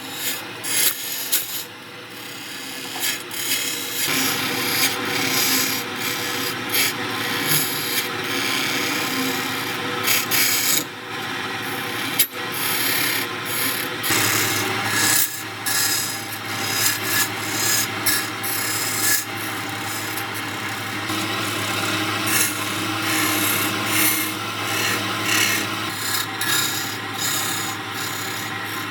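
A tool or abrasive scraping and rasping against a spinning wood-and-epoxy blank on a lathe, rising and falling unevenly. There is a single sharp click, and shortly after it a steady low motor hum joins in for the rest.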